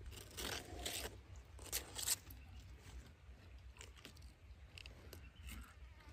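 Crunching and chewing of an animal feeding, with two loud bursts in the first two seconds and fainter clicks after.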